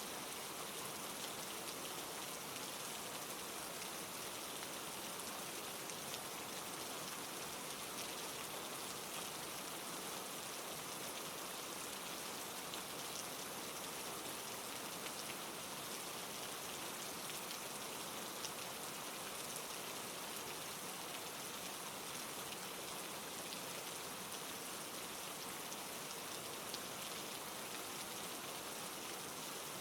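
Steady rain falling, an even dense patter with a few slightly louder drops here and there.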